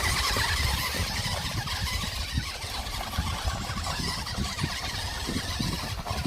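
Small electric RC crawler driving over rough ground, its motor and gears giving a steady high whine, with wind rumbling on the microphone.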